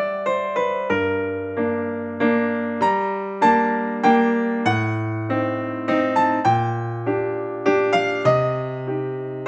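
Background piano music: a melody of struck notes, each fading away, over slower bass notes.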